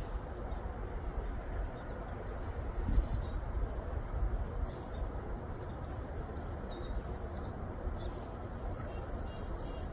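Small songbirds at a feeder calling with many short, scattered high chirps and brief gliding notes, over a steady low background noise.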